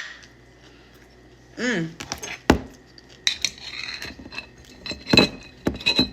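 Close-up eating sounds: a few sharp crunches and clicks and a stretch of crackling, with a short hummed 'mm' about a third of the way in.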